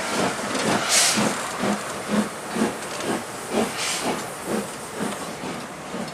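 Steam locomotive working under steam: regular exhaust beats about two a second over a steady hiss of steam, growing slightly fainter toward the end.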